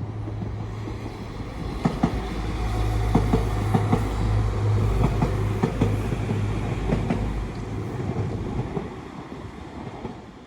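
Class 195 diesel multiple unit passing through at speed: a low engine drone with rapid clickety-clack of the wheels over the rail joints. It builds over the first couple of seconds and fades away near the end.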